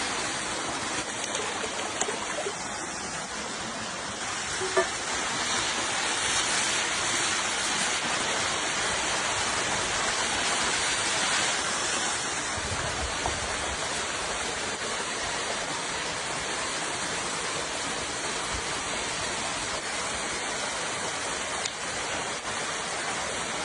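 River water rushing and splashing steadily, with a few small ticks over it.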